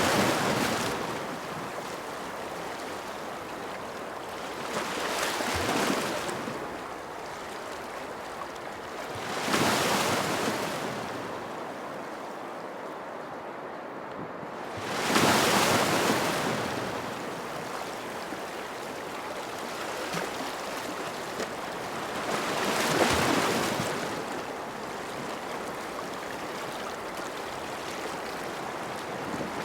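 Ocean waves breaking on a shore, each one swelling and then washing back, about every five to seven seconds over a steady hiss of water; the loudest breaks about fifteen seconds in.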